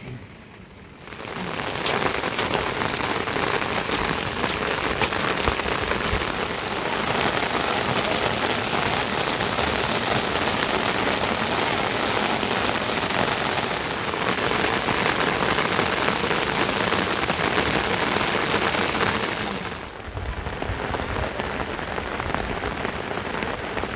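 Steady rain falling, an even hiss with many small drop ticks. It swells up over the first second or two, dips briefly about twenty seconds in, then carries on a little quieter.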